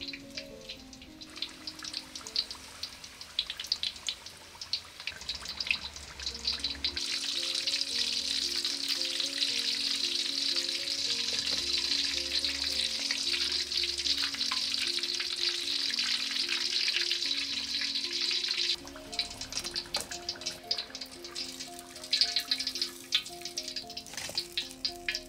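Cabbage and egg snacks sizzling and crackling in hot oil, the sizzle swelling sharply about seven seconds in and dropping back about twelve seconds later.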